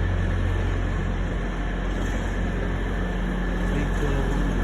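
Steady low rumble of a train's machinery, with a constant deep hum and an even background noise that does not change.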